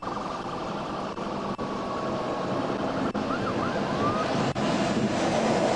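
Emergency vehicle siren wailing, faint under a steady rumble of engine and road noise.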